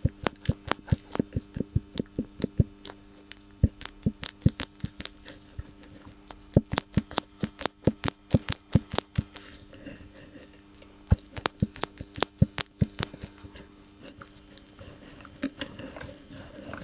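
Worn anti-roll bar (stabilizer) link from a BMW X5 E53 knocking: a rapid, irregular run of sharp clicks, several a second, thinning out after about thirteen seconds. The knock comes from a failed lower ball joint that has gone too soft.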